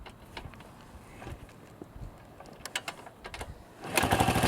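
Light scattered clicks and knocks, then near the end a single-cylinder motorcycle engine comes in loudly, running with an even, rapid pulse.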